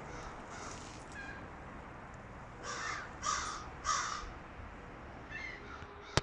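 A bird, likely a crow, gives three short, harsh cawing calls about half a second apart, a little under three seconds in, followed by fainter calls; a sharp click sounds at the very end.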